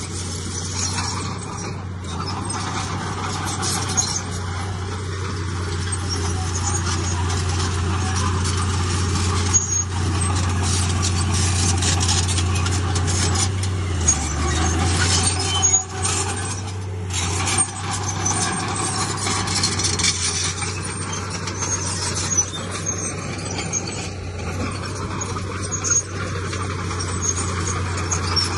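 Heavy diesel engine of earthmoving machinery running steadily, its pitch dipping briefly about halfway through, with scattered high metallic squeals and clanks over it.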